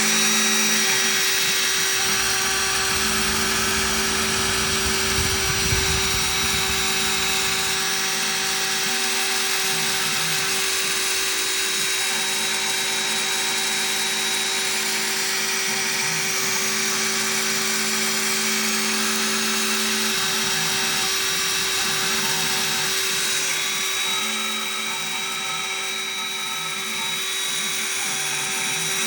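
Spindle motor of a Chinese 1810 desktop CNC mill running with a steady whine while engraving a copper-clad circuit board. A lower hum comes and goes several times, and the level dips briefly near the end.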